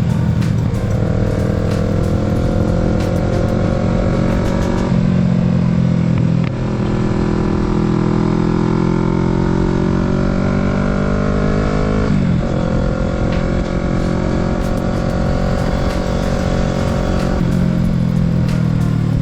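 Kawasaki Z650 parallel-twin engine under way, its pitch climbing as the bike accelerates and changing abruptly at gear shifts about five, twelve and seventeen seconds in.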